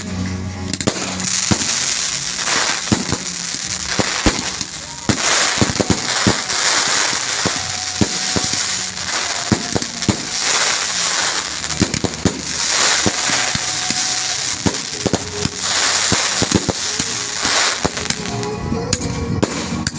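Fireworks going off: a rapid run of sharp bangs and pops over dense crackling and hiss that swells and eases in waves.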